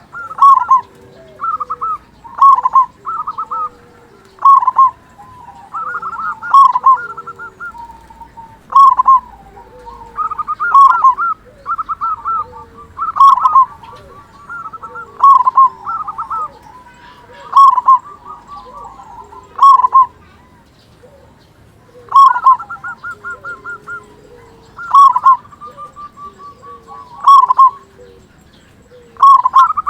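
Male zebra dove (perkutut) singing over and over: a loud rolling coo phrase about every two seconds, often led by a quick trill of rapid notes. Fainter, lower coos sound between the phrases.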